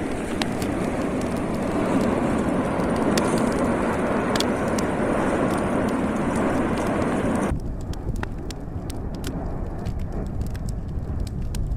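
Steady rushing roar of a volcanic eruption recorded outdoors, with scattered sharp crackles. About seven and a half seconds in it cuts abruptly to a duller, slightly quieter roar.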